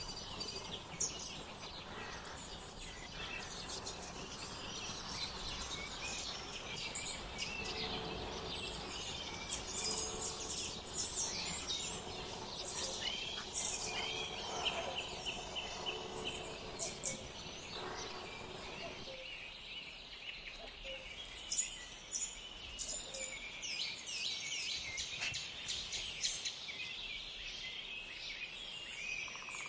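Several small songbirds chirping and singing in overlapping quick calls and trills over a background hiss. A faint steady low hum runs through the middle part, and the low background drops away about two-thirds of the way in.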